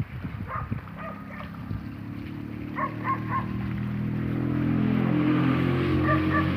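An engine running, its steady hum growing louder over the first few seconds and then holding. Short high chirps come over it now and then.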